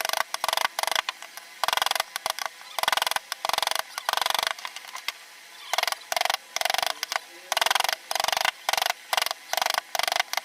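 Hand carving tools working wood in short repeated strokes, about two a second in an irregular rhythm.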